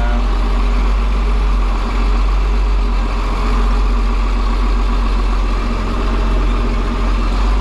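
Tractor engine running steadily, a constant deep drone with no change in speed.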